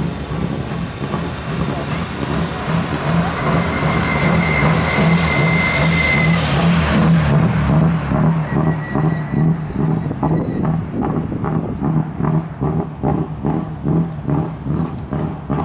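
Hill-climb race car passing at full throttle. It grows loudest about seven seconds in, then fades into a pulsing engine note as it drives off up the course.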